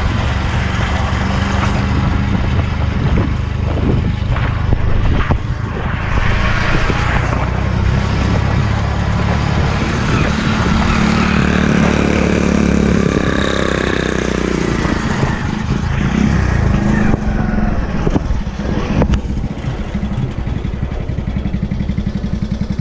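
Honda C70 step-through motorcycle's small single-cylinder four-stroke engine running under way. The engine note rises and falls around the middle and settles to an even idle near the end.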